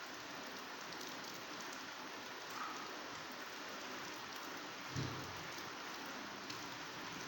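Heavy rain falling steadily on vegetation, with scattered drop ticks. A short low rumble comes about five seconds in.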